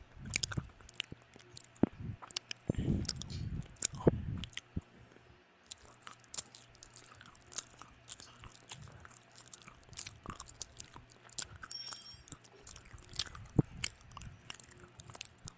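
Close-miked chewing, biting and mouth sounds of a person eating, with many small wet clicks. A brief clink rings out about twelve seconds in.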